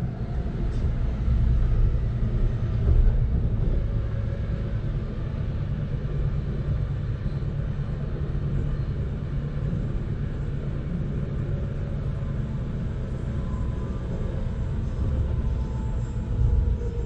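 BART train car running, heard from inside the car: a steady low rumble, with faint high whines from the wheels and rails coming in during the last few seconds.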